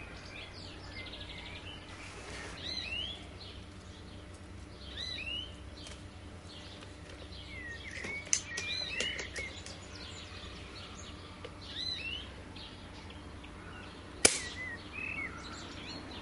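Small songbirds chirping in short, curved calls over a steady low background, with a single sharp crack about fourteen seconds in, the loudest sound.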